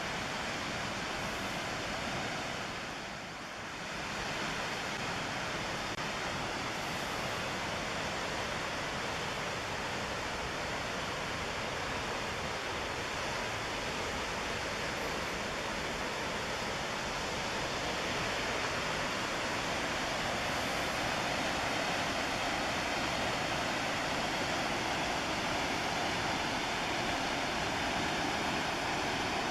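Steady rush of the McKenzie River's white water beside the trail, dipping briefly a few seconds in and growing a little louder about two-thirds of the way through.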